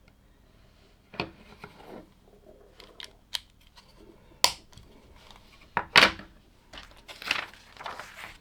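LEGO plastic pieces being handled and snapped together: a series of sharp separate clicks, the loudest a little past the middle, then a short stretch of rustling and clatter near the end.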